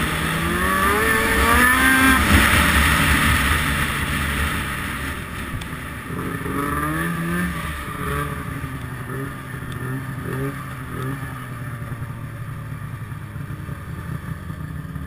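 Two-stroke snowmobile engine revving hard with rising pitch sweeps in the first two seconds and again about seven seconds in, then settling to a lower, quieter drone.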